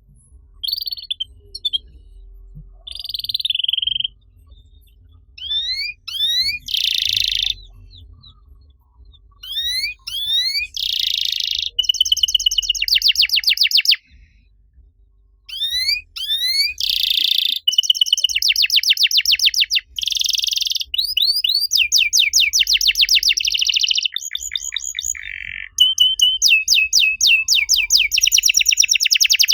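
Canary singing in phrases of rapid trills and repeated notes, with quick rising sweeps between them. There is a short pause about halfway through, and the song ends in a dense, fast trill.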